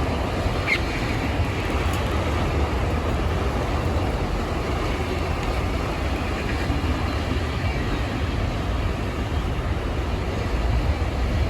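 Freight train passing, a steady, even rumble with most of its weight in the low end.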